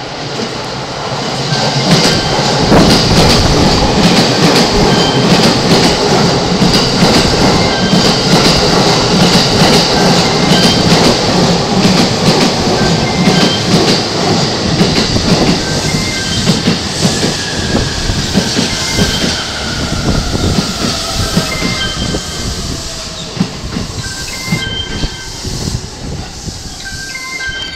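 JR E231/E233-series electric train pulling in alongside the platform: dense clatter of wheels over rail joints, loudest in the first half and easing off. A motor whine falls in pitch as the train slows.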